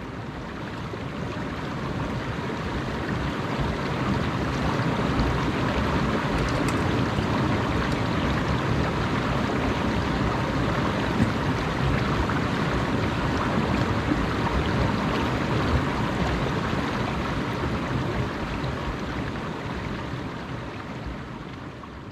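Steady rushing noise of running water, fading in over the first few seconds and fading out near the end.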